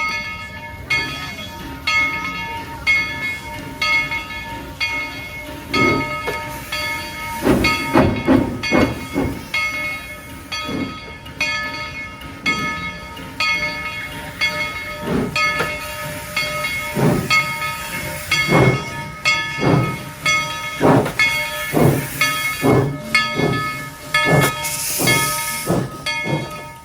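Tweetsie Railroad No. 190, a 2-8-2 steam locomotive, with its bell ringing steadily about twice a second while it starts to move. Its exhaust chuffs set in about six seconds in and come faster toward the end, with a burst of steam hiss near the end.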